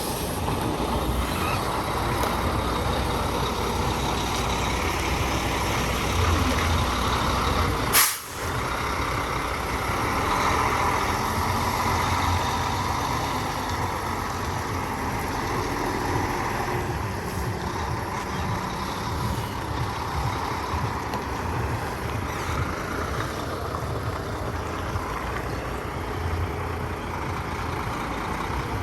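Semi truck's diesel engine running steadily at low speed while it is backed into a parking space, with one sharp click about eight seconds in.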